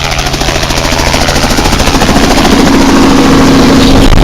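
Helicopter running at close range, its rotor beating fast and steadily and growing louder, with a steady engine hum coming in about two seconds in.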